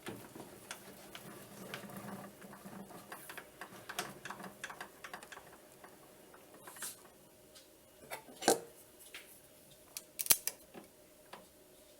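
Irregular clicks and knocks of small metal parts and tools being handled, the loudest knocks about eight and a half and ten seconds in.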